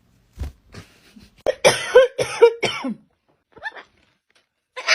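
Pet parrot giving a quick run of short, harsh, cough-like calls, followed by one brief call a little later.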